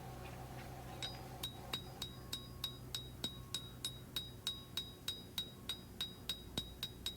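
Hammer blows on a hot high-carbon steel knife blade over an anvil, drawing down the edge, in a steady rhythm of about three strikes a second, each with a bright metallic ring. The strikes start about a second in, over a low steady hum.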